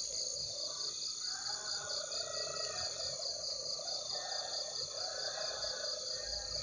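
Night insects, crickets, trilling steadily in a high chorus, one trill pulsing rapidly, with fainter wavering sounds lower down.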